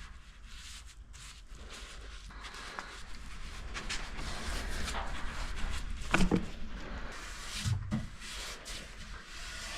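Paint stripper being spread over the wood of a mahogany dresser: a rubbing hiss that grows louder partway through, with two short knocks about six and eight seconds in.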